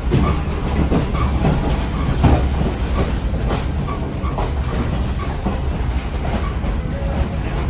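Passenger train rolling along the track, heard from on board: a steady low rumble with frequent irregular clacks and knocks from the wheels on the rails.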